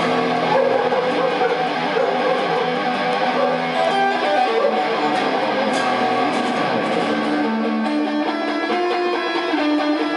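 Rock music led by electric guitar, with strummed chords and held notes.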